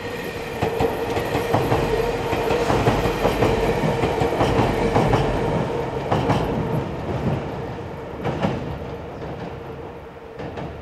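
Electric passenger train crossing a steel truss railway bridge: wheels clattering rhythmically over rail joints with a steady hum under them. The sound swells early on and fades as the train moves off the bridge.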